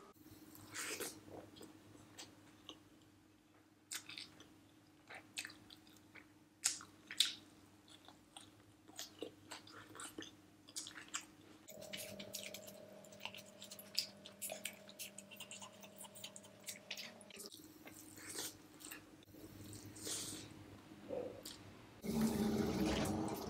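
Close-miked mouth sounds of someone eating biryani rice with her fingers: soft chewing with irregular wet smacks and clicks, over a faint steady hum. A louder stretch of noise comes near the end.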